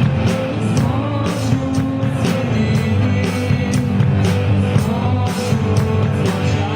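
Rock band playing live: guitars and drum kit, with a steady beat of drum hits about twice a second.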